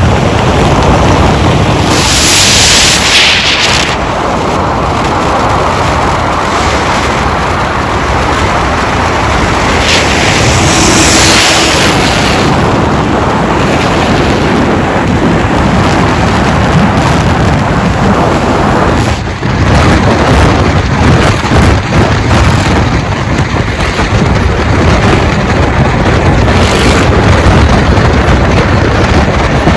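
A car doing donuts at close range: engine held at high revs with tyre noise, loud enough to overload the microphone into a rumbling roar, with two bursts of high hiss about two and ten seconds in.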